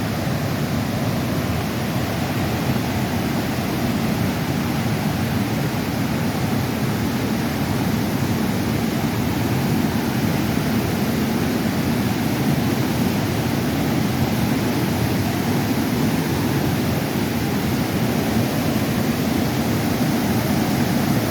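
Steady rushing roar of a swollen creek in flood, water pouring fast over rocks.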